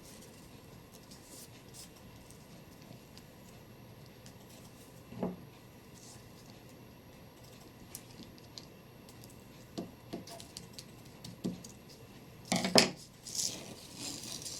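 Craft materials handled on a tabletop: a few faint knocks and taps, then a louder clatter and rustle near the end.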